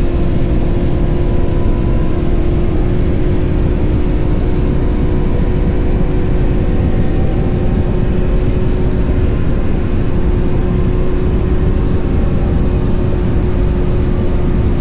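Motorcycle cruising at a steady speed: an even engine drone under heavy, constant wind rush.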